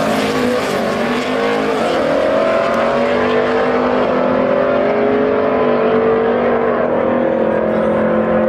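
A race vehicle's engine running at high revs under load, its pitch climbing in the first two seconds and then rising slowly and steadily.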